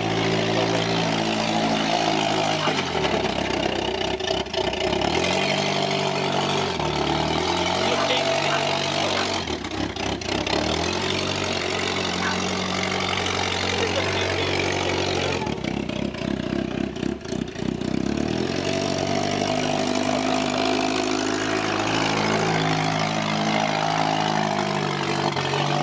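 A compact coupe's engine running and being revved, its pitch stepping up and falling back several times as the car is driven slowly across grass.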